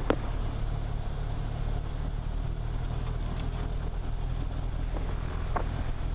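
Cessna 172S's four-cylinder Lycoming engine running at low taxi power, a steady low drone heard in the cabin. A short click sounds just at the start.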